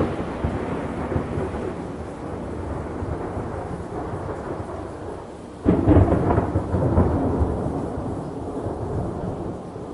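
Thunder rumbling over steady rain, with a sudden louder clap about five and a half seconds in that rolls on and slowly fades.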